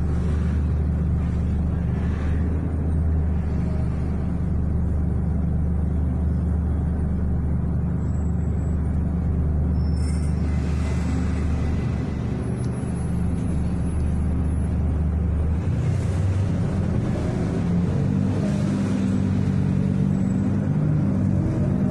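City bus engine running, heard from inside the passenger cabin as a steady low hum. A brief hiss comes about ten seconds in. From about two-thirds of the way through, the engine note changes, with rising tones.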